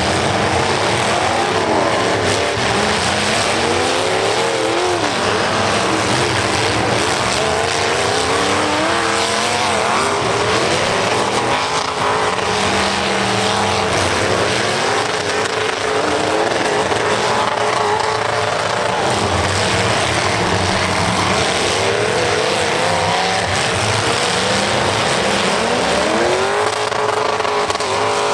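Several demolition derby cars' engines revving up and down over and over, overlapping one another over a steady rush of noise.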